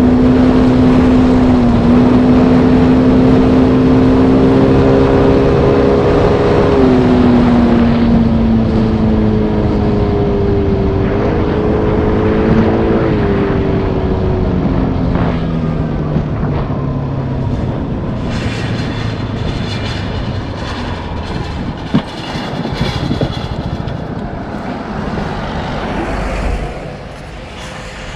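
Motorbike engine running while riding, its note stepping up and down as the rider changes speed. About halfway through it winds down and fades under a hiss of noise, with a sharp click a few seconds later. Near the end the sound drops off abruptly.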